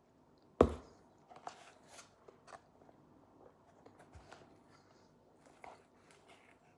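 A single loud knock about half a second in, then a scatter of small clicks and short crunches of someone eating and handling food.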